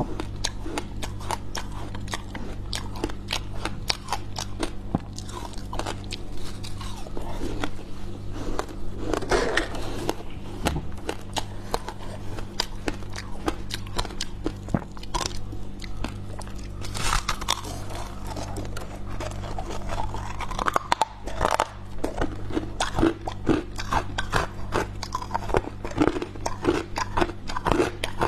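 Freezer frost being bitten and chewed close to the microphone: dense crisp crackling throughout, with louder crunches about once a second near the end. A steady low hum runs underneath.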